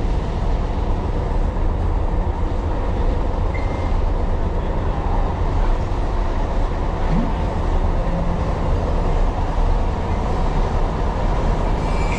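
Tyne and Wear Metro train running along the track, heard from inside the train: a steady low rumble of wheels and running gear.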